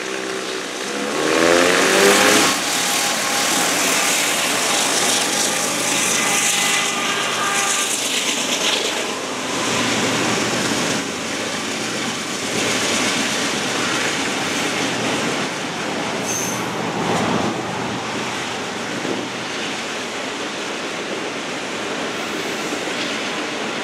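A diesel freight train passing close by. Its locomotives, led by GE ET44AH units, are loudest about two seconds in, with a pitched engine drone. Then a long string of tie cars rolls past with steady wheel-on-rail noise and occasional light wheel squeal.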